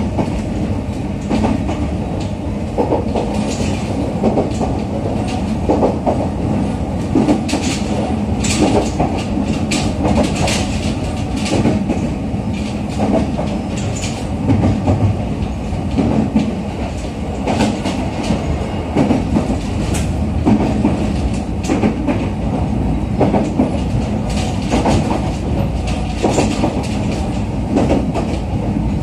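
Running noise inside a JR East EV-E301 series ACCUM battery-electric train car under way: a steady rumble of wheels on rail with a low hum, and repeated irregular clacks as the wheels pass over the track.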